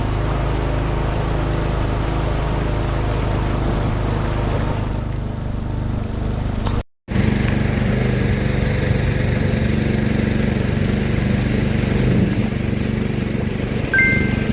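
Boat's outboard motor running steadily with a low drone. It drops out for an instant about halfway, and a short high chirp sounds near the end.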